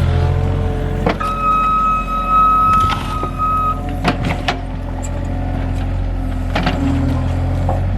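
John Deere 35G mini excavator working: its engine runs steadily under a high hydraulic whine that lasts a couple of seconds, with several sharp metallic knocks and clanks scattered through.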